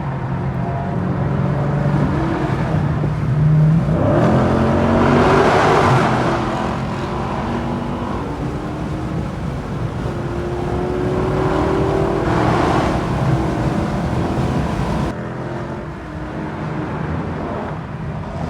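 Car engines running and revving, with cars passing; the engine pitch climbs twice, getting loudest about five and twelve seconds in.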